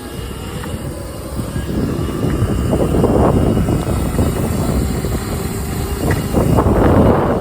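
Wind rushing over the microphone while riding an electric dirt bike, in gusts that swell louder about two to three seconds in and again near the end.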